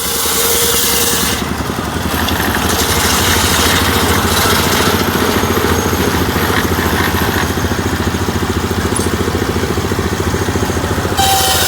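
The small engine of a homemade model sawmill runs steadily with a rapid, even pulsing. Near the end the sound changes and a higher whining tone joins in.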